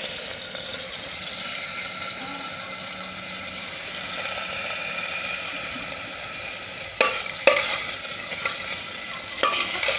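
Raw chicken pieces sizzling in hot ghee and water in an aluminium pot, a steady hiss throughout. A metal ladle knocks sharply against the pot three times in the last few seconds while stirring.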